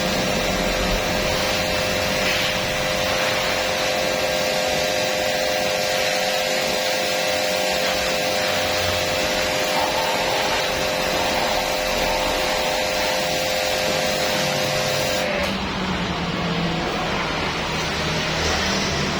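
Petrol-engine pressure washer running and spraying with a steady hiss and hum, which cuts off suddenly about 15 seconds in, leaving a duller, steady noise.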